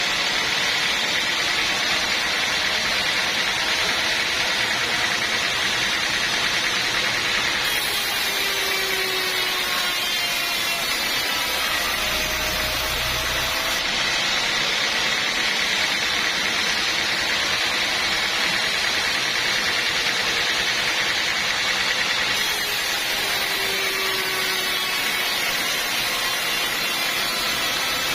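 Sawmill machinery running steadily: an unbroken mechanical hiss with a constant high whine.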